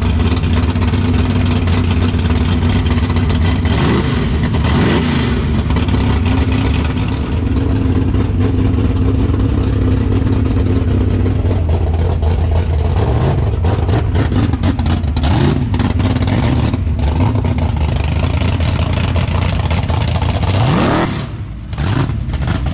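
Car engine running with a deep, steady idle, revved briefly several times.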